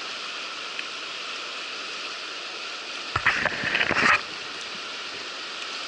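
Steady rush of a fast-flowing river. About three seconds in, a loud, scraping burst of close noise lasting about a second cuts through it.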